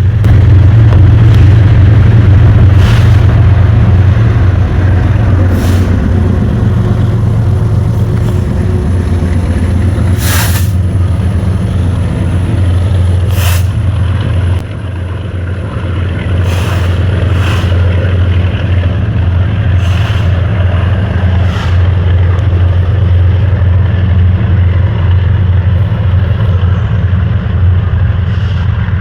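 Norfolk Southern freight train's rear diesel locomotives passing close by: a loud, steady low engine drone over rolling wheels on rail, with sharp metallic clicks at intervals. The loudness dips briefly about halfway through, then holds steady.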